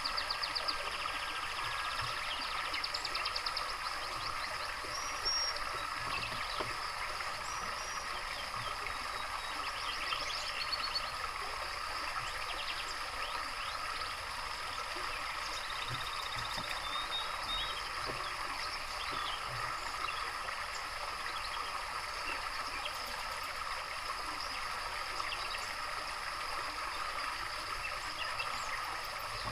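Water trickling steadily, with small songbirds singing rapid trills and short whistles over it, busiest in the first half.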